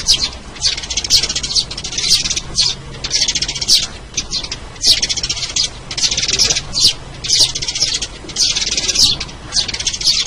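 Sparrows chirping in rapid chattering bursts, each about a second long, repeated over and over with short gaps between them. This is a sparrow call lure recording, played to draw sparrows in.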